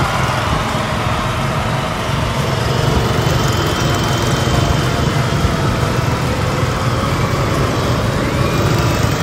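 Several go-kart engines running steadily as the karts drive around the track.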